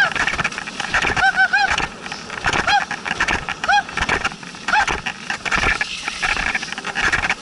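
Dog sled running over snow: a steady scraping hiss from the runners with clattering and knocks from the sled. There are several short, high squeaks, three in quick succession about a second in, then one roughly every second.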